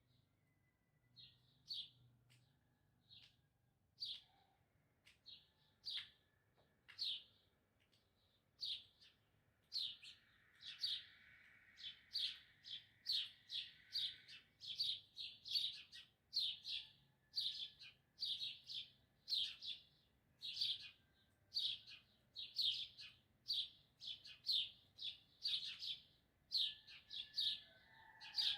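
A small bird chirping over and over: single short, sharp chirps that come sparsely at first, then quicken to about two a second.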